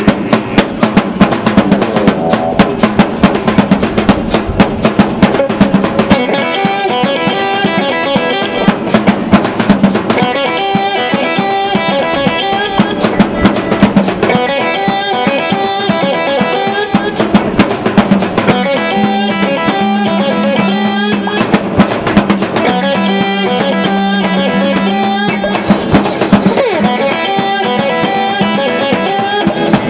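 A live ensemble playing music driven by rapid, dense drumming. Pitched instruments come in about six seconds in, repeating figures over a low held note.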